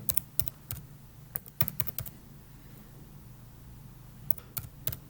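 Computer keyboard being typed on: a quick run of about eight keystrokes in the first two seconds, then a pause and a few more keystrokes near the end, over a faint steady hum.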